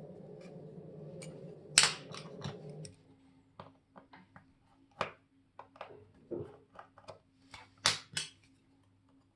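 Sharp small clicks and taps of metal watchmaking tools on the parts of a Molnija chronograph watch, at uneven spacing. For about the first three seconds a low, steady rubbing noise runs under the clicks.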